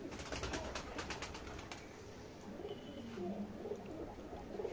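Birds calling in the background: short, low, repeated calls through the second half. A quick run of about ten clicks comes in the first two seconds.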